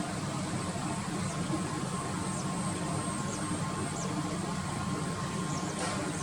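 Steady low rumble of outdoor background noise, with a few faint, short, falling high chirps scattered through it.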